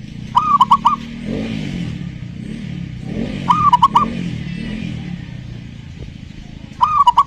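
Zebra dove (perkutut) song: three quick phrases of about four arched coos each, spaced about three seconds apart, with a run of lower, deeper coos between the first two phrases.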